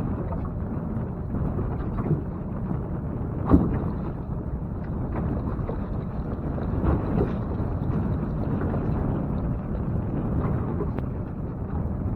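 Wind rumbling on the microphone outdoors, with a few light knocks, the sharpest about three and a half seconds in.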